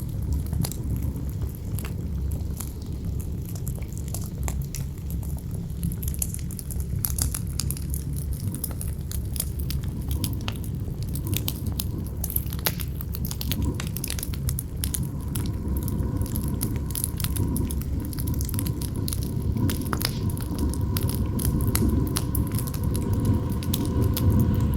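Campfire crackling with many sharp little pops over a deep, gusting wind rumble. About two-thirds of the way in, a faint steady whistle of howling wind joins.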